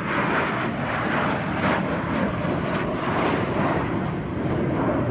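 Jet fighters of an air-show formation team flying past: loud, steady jet-engine noise.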